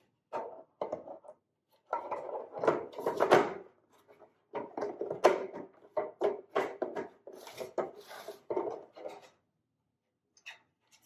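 Plastic bird feeder parts being handled: a run of irregular knocks, clicks and rubbing as the feeder cover is fitted onto the housing. The handling stops about a second and a half before the end.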